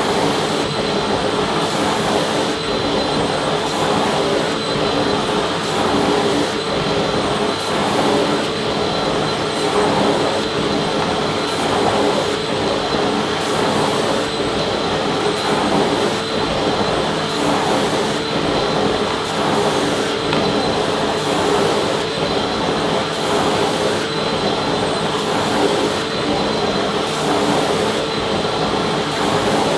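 Vacuum cleaner running continuously at a steady pitch: an even motor whine and rush of air, with fixed tones in the hum.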